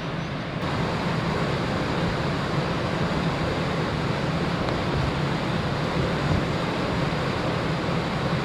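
Wind and rushing sea water passing a large ferry at sea, over a steady low hum from the ship.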